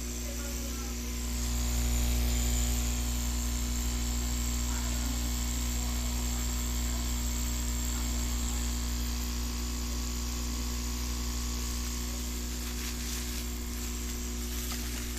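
A hot air unit running with a steady vibrating hum and buzz that grows a little louder about a second in and then holds.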